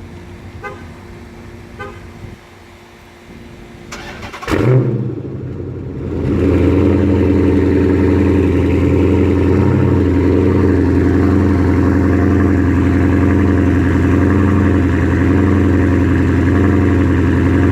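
Straight-piped Chrysler 300 SRT-8's Hemi V8 cold start. It cranks and catches about four seconds in with a brief loud flare, then settles about six seconds in into a loud, steady idle.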